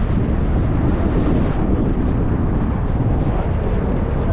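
Steady road and engine noise of a car driving, a dense low rumble with no distinct events.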